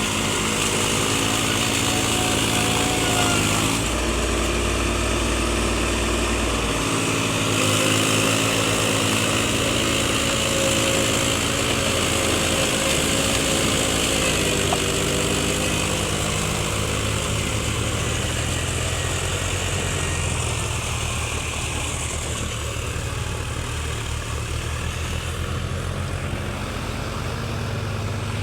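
Tractor engines running steadily, the engine speed changing a few times.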